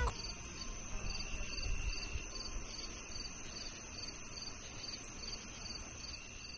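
Crickets chirping steadily, about two or three chirps a second, over a faint low background rumble.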